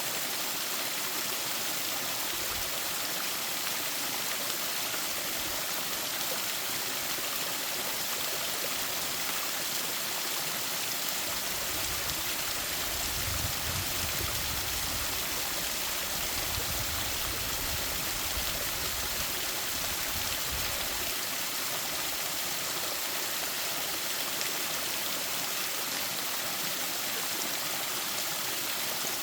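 Mountain stream flowing: a steady rush of water. A faint low rumble comes in about twelve seconds in and fades out about nine seconds later.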